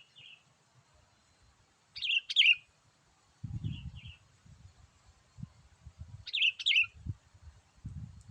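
Sooty-headed bulbul (kutilang) calls: two loud, quick two-part phrases about four seconds apart, with fainter short two-note calls in between. A low, irregular rumbling noise runs underneath from about a third of the way in.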